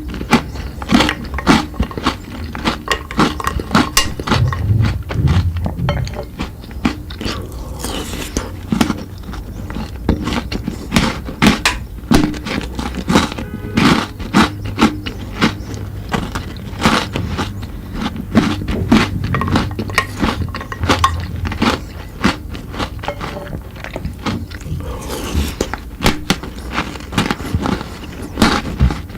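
Close-up eating of chocolate treats: a steady run of sharp crunching bites and chewing, crackling irregularly throughout.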